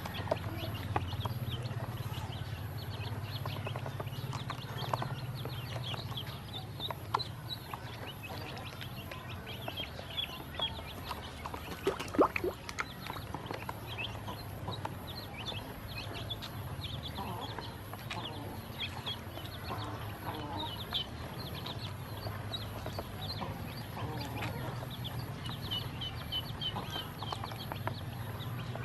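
A group of ducklings peeping in many short, high calls over a steady low hum, with one sharp knock about twelve seconds in.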